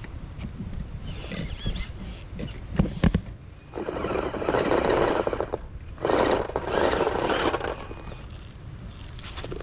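Small electric-motor RC crawler truck at work on rough ground: a brief high whine and a few sharp clicks, then two long stretches of crunching, scrabbling noise.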